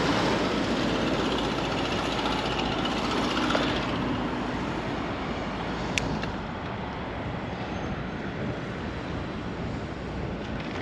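Rushing road noise while cycling: wind on the helmet- or body-mounted action camera's microphone mixed with passing traffic, louder in the first few seconds and then easing off. A single sharp click about six seconds in.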